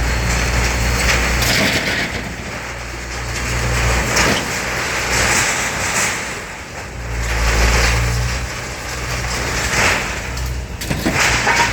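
A diesel engine of heavy machinery running, its low hum rising and falling, with scraping and a few sharp clanks of scrap metal being handled.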